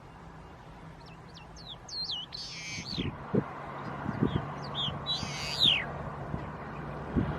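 A bird calling: a run of quick whistled notes sweeping up and down, then a harsher, rasping call, and the pattern again a few seconds later. Low thumps from wind or handling on the microphone come in partway through.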